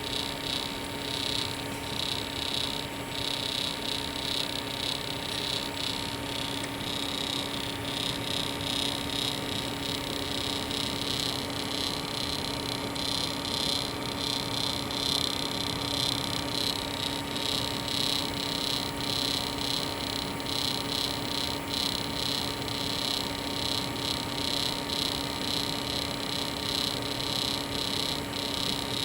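Custom desktop PC making its unexplained electrical noise: a steady hum with a higher, buzzing whine that flickers rapidly and grows stronger about midway. The noise comes mainly under gaming load and stayed the same with two different power supplies fitted.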